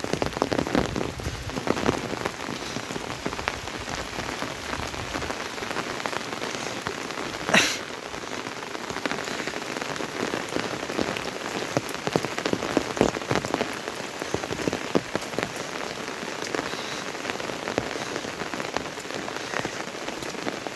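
Steady monsoon rain falling, with many small drop hits close by and one sharp, louder knock about seven and a half seconds in.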